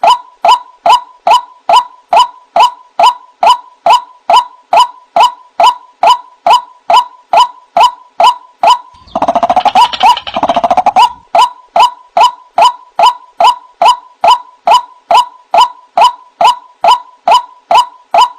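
White-breasted waterhen (ruak-ruak) calls played as a bird lure: short calls repeated about three times a second, each sliding down onto a steady note. About halfway through, a second, denser run of calls overlaps them for about two seconds.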